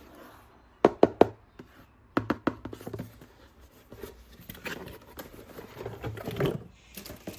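Plastic toys and packaging being handled during an unboxing: three sharp clicks about a second in and another cluster a second later, then softer rustling and scraping.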